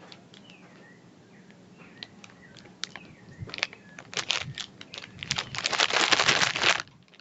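Faint chirps, then a run of crackling clicks that thickens into a dense, loud crackle from about five seconds in until just before the end: a crunchy snack being eaten, with its packet handled.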